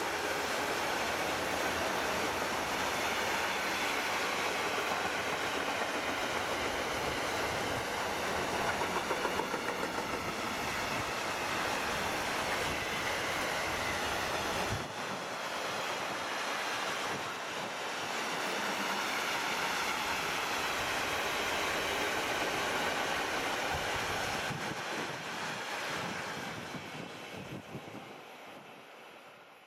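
Empty double-deck car-carrier freight wagons rolling past close by: a steady rumble and rattle of steel wheels on the rails that fades away over the last few seconds as the end of the train passes.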